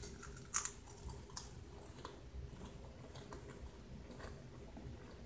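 A person chewing a Pringles potato crisp: a few faint crunches in the first couple of seconds, then softer, quieter chewing.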